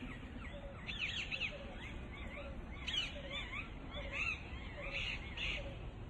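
Parrots calling: a rapid, continuous series of short chirps that rise and fall in pitch and overlap one another.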